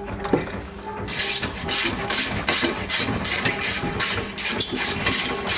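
Ratchet wrench worked in quick, repeated clicking strokes from about a second in, with background music playing underneath.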